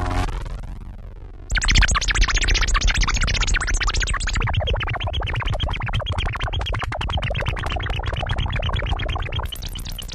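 Electronic synthesizer music with a sweeping phaser-like effect, coming in suddenly and loudly about a second and a half in after a brief dip.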